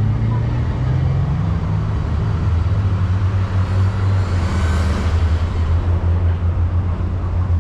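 Steady low rumble of street traffic, with a vehicle passing by and swelling loudest about four to five seconds in.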